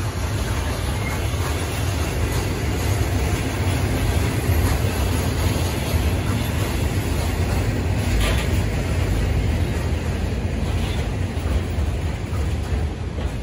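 A freight train of rail tank wagons rolling past, a steady rumble of wheels on rail with a brief sharper sound about eight seconds in.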